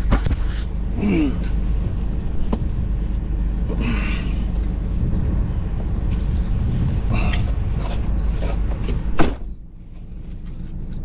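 Low steady rumble of a small car's engine running, with faint clicks, and one sharp knock about nine seconds in after which the sound goes briefly quieter.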